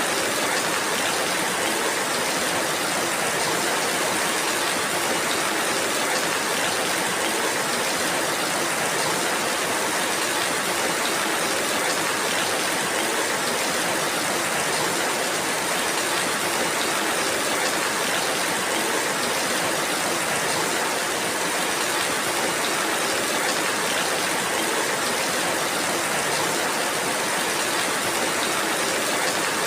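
Steady rainfall: a dense, even hiss that holds constant with no single drops or gusts standing out.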